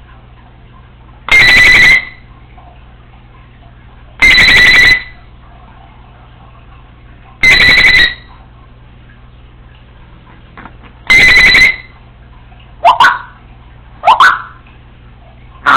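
Congo African grey parrot mimicking an electronic alarm beep: five loud, steady, two-toned beeps of about half a second, repeated every three seconds or so at slightly uneven spacing, followed near the end by two short sliding whistles.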